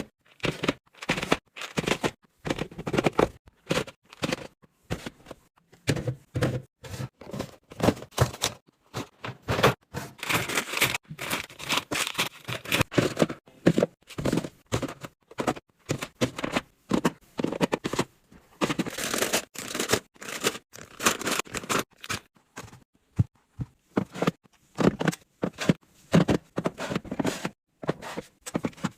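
Packaging and containers being handled while a pantry is restocked: a busy, irregular run of short clicks, knocks and rustles as items are unwrapped and set into place.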